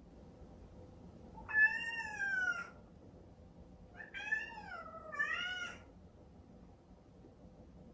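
Exotic Shorthair cat meowing three times in drawn-out, falling cries: one, a pause, then two close together. She is calling for her owner from behind a closed door.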